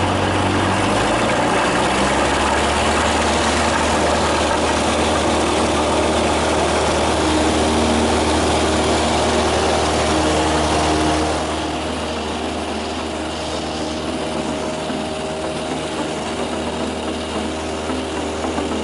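Cessna 172's four-cylinder Lycoming engine running at takeoff power, a steady loud drone heard inside the cabin; the sound drops somewhat in level about eleven seconds in.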